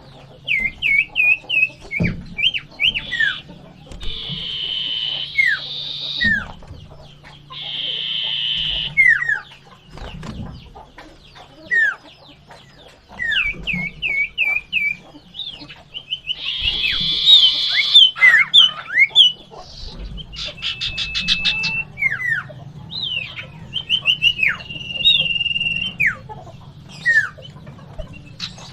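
Common iora (cipoh, sirtu) singing vigorously in its 'gacor' manner. It gives repeated short down-slurred whistles mixed with harsh rasping chatters about a second long and quick rattling trills.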